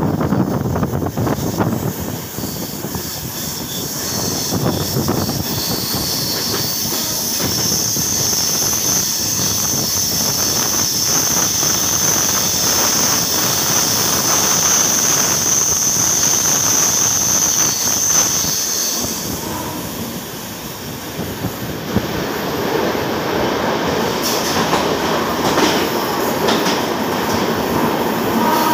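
Passenger train running on the rails, heard from an open coach window, with a long high-pitched wheel squeal from about six seconds in until about nineteen seconds. Near the end the running sound grows fuller as the train passes through a tunnel.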